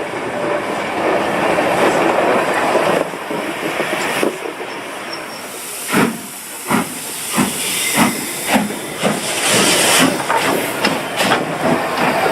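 Steam locomotive blowing off a steady hiss of steam, then about halfway through its exhaust starts to chuff, under two beats a second at first and quickening as it gets under way.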